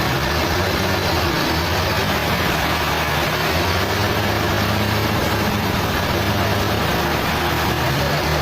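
Sawmill machinery running steadily: a low engine-like drone with a hiss over it, holding an even pitch and level.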